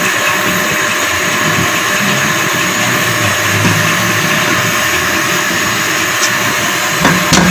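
A steady hiss as onion-tomato masala fries in a nonstick pot, with a silicone spatula stirring it, and a short knock near the end.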